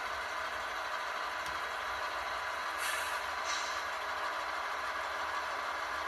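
HO scale model locomotive's sound decoder playing a steady engine idle through a small speaker, with two short air hisses about halfway through, like a brake release.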